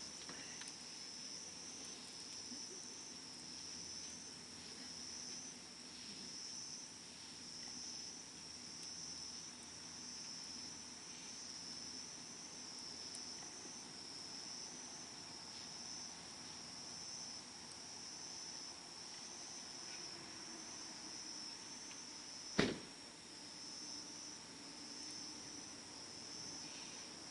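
Crickets chirping steadily in a high, pulsing trill, over faint crackling from a wood campfire. About three quarters of the way through, the fire gives one sharp, loud pop.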